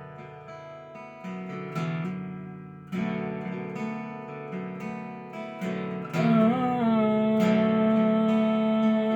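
Acoustic guitar playing a slow intro, chords struck about once a second and left to ring. About six seconds in, a louder held note bends up into pitch and sustains over the guitar.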